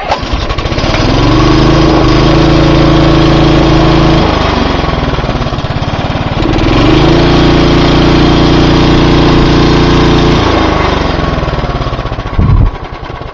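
Walk-behind mulching lawn mower's small single-cylinder engine cold-started on the pull cord, catching at once and running at high speed. About four seconds in its speed sags for a couple of seconds and picks up again, then it slows near the end, with a short loud knock just before the end.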